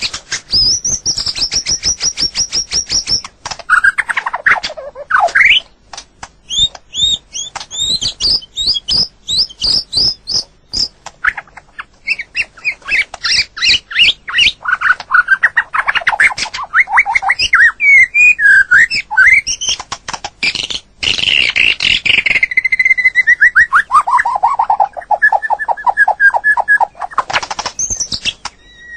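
White-rumped shama singing a varied song of fast runs of repeated notes and high trills. Near the end, a long series of notes slides down in pitch.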